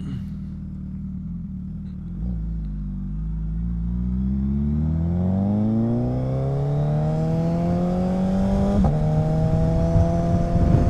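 Suzuki Hayabusa motorcycle engine idling, then pulling away with its pitch climbing steadily as it accelerates. It upshifts just before nine seconds in and then holds a steady pitch, with wind rumble growing on the microphone.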